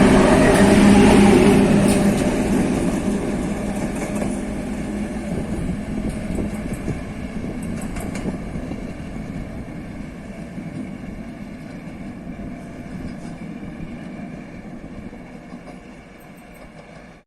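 A diesel train runs past close by and then recedes, its engine drone loudest in the first couple of seconds and fading steadily into the distance until the sound cuts off abruptly near the end.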